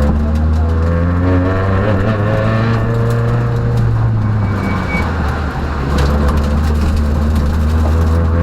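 Peugeot rally car's engine heard from inside the cabin, pulling hard and rising in pitch, easing off briefly about two-thirds of the way through, then climbing again. Scattered sharp clicks sound over it.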